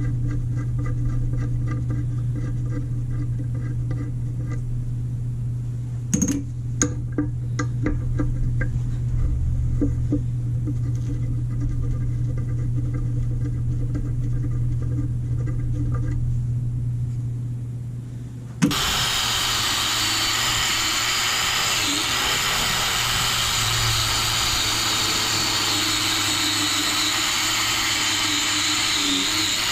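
A power tool's motor hums steadily with a fast, even ticking, and a few sharp clicks come about six to nine seconds in. Near two-thirds of the way through, it switches abruptly to a louder, dense, steady machine noise.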